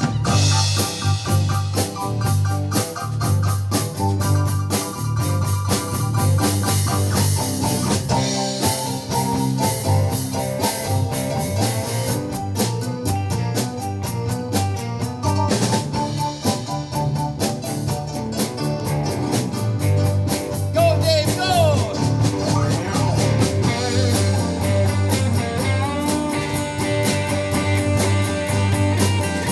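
Live rock and roll band playing an instrumental break: a steady drum-kit beat with cymbals and rimshots, a bass line, and guitar with some bending notes about two-thirds of the way through.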